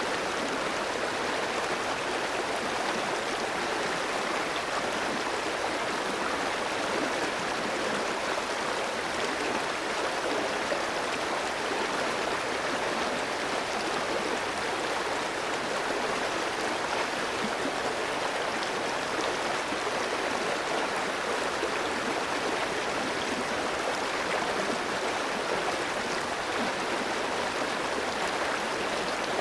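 Clear stream of fast water running over rocks, a steady rushing and gurgling with no change.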